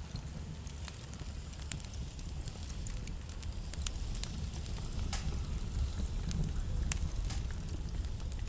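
Wood fire burning in a fireplace: a steady low rumble of flames with scattered crackles and pops from the burning logs, a few sharper pops in the second half.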